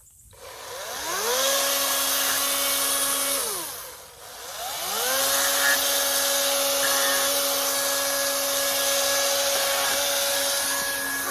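Toro chainsaw run twice: each time its motor whine rises as it speeds up, holds a steady pitch, then falls away when released. The second run lasts much longer.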